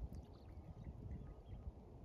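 Faint wetland ambience: an uneven low rumble on the microphone with scattered short, distant bird chirps.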